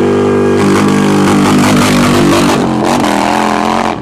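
Harley-Davidson V-twin engine held at high revs for a burnout; about half a second in, the rough hiss of the spinning rear tyre joins the engine note. The engine note rises a little before the sound cuts off abruptly near the end.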